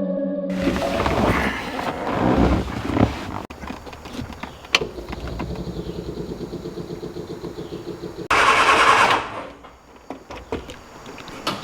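1970 MG Midget's 1275 cc four-cylinder engine being cranked by the starter and trying to catch, with a fast even churning and a loud burst of noise about eight seconds in, on a first start after the carburettors were rebuilt and synchronized.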